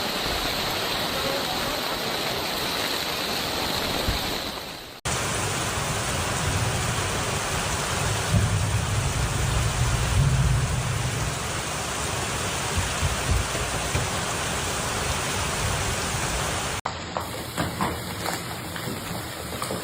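Heavy rain pouring down steadily, in three stretches that cut abruptly from one to the next about five seconds in and near the end; the middle stretch carries a deeper rumble, and the last has scattered sharp hits.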